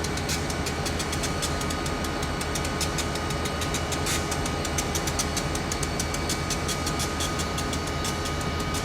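Train rolling past, its wheels clicking rapidly over the rails, with a faint steady whine.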